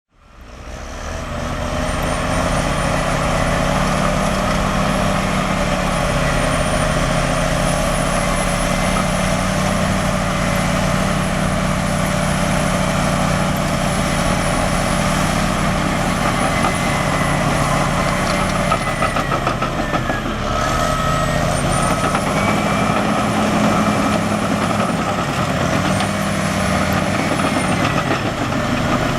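Caterpillar D6R XW bulldozer's diesel engine running steadily while grading, with a thin high whine riding above it. The engine note and whine dip briefly about two-thirds of the way through, then pick up again.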